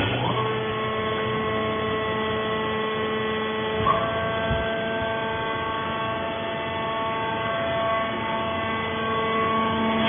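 Electric motor and hydraulic pump of a fibre baler running with a steady whining hum. It switches on with a click, spins up, and winds down at the end.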